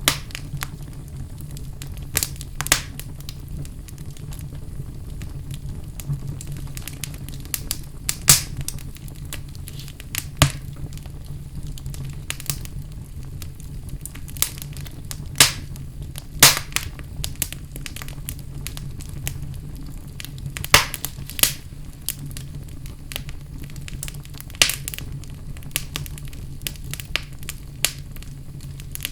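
Wood fire burning in a fireplace: a steady low rumble of flames with sharp, irregular pops and crackles of burning wood.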